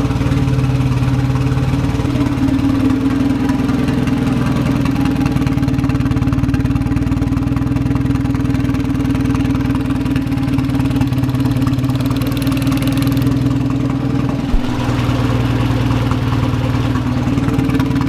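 Turbocharged engine of a Golf Mk1 AWD build idling steadily, with a single sharp click about three-quarters of the way through.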